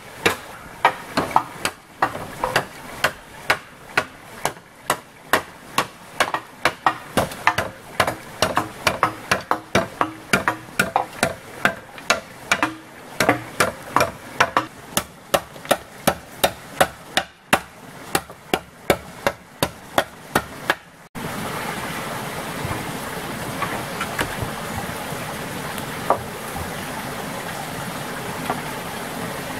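Hammer striking repeatedly, about two blows a second, for about twenty seconds. It cuts off abruptly to a steady rushing noise.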